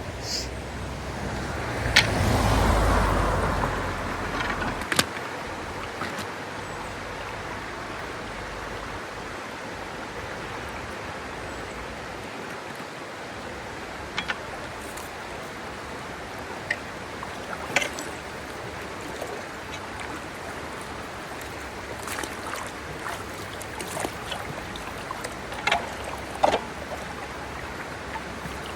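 Steady rush of floodwater running through roadside culverts, with scattered knocks and splashes from wading and handling debris in the water; a louder whoosh swells and fades about two to four seconds in.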